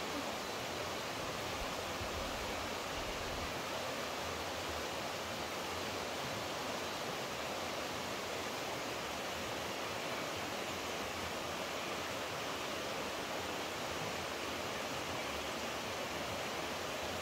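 Steady rushing of flowing water, as from a stream or small waterfall, holding an even level throughout.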